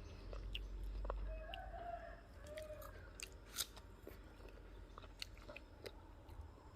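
Crisp guava being bitten and chewed close to the microphone, in scattered sharp crunches. A rooster crows in the background for about a second and a half, starting about a second in.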